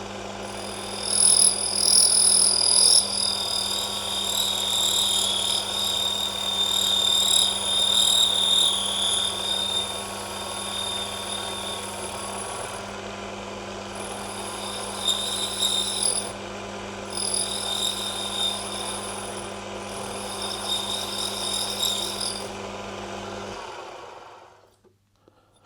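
Small model-making lathe's motor running with a steady hum while a cutting tool turns a brass part, the cut giving a high-pitched squeal that comes and goes in stretches. The lathe is working at the limit of its strength with very light cuts. About two seconds before the end the motor is switched off and the sound dies away.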